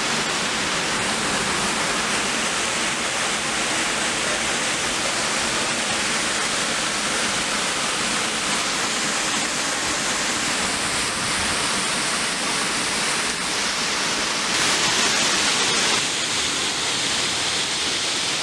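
Waterfall pouring: a steady, even rush of falling water, briefly a little louder about fifteen seconds in.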